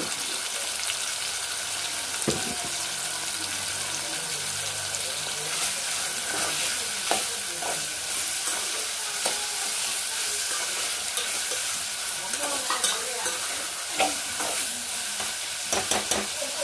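Chopped tomatoes, onions and green chillies sizzling steadily in hot oil in a metal pot, frying down to soften. A spoon clinks and scrapes against the pot several times near the end.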